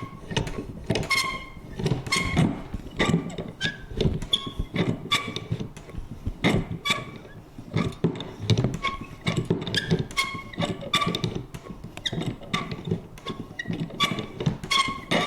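Vintage paper punch worked over and over: repeated clicks and knocks, one or two a second, many with a short high creak or squeak from the mechanism.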